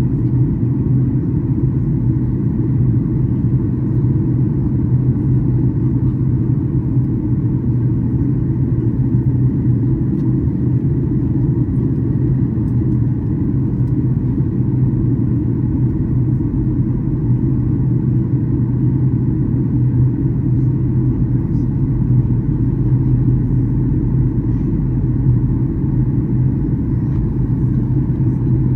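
Steady cabin rumble inside a Boeing 737-800: engine and airflow noise from its CFM56-7B turbofans, a constant low drone at an even level.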